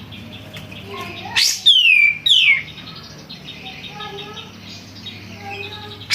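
Kapas tembak, a bulbul, singing: a loud burst of sweeping whistled notes gliding down in pitch, about a second and a half in, with softer chirps before and after. A steady low hum runs underneath.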